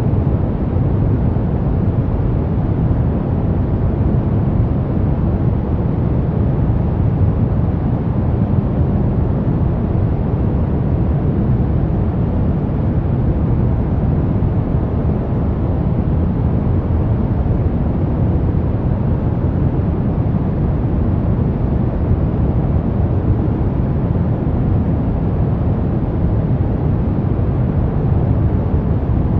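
Brown noise: a steady, deep rumbling hiss, strongest in the low end and thinning out toward the highs, with no change in level.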